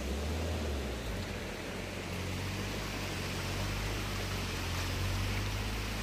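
Maruti Suzuki Swift hatchback's engine running at low revs as the car drives slowly over a muddy dirt track, a low hum that shifts in pitch about two seconds in, under a steady hiss.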